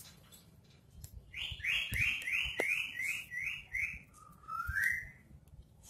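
A bird singing: a quick run of about seven falling whistled notes, then a short rising note.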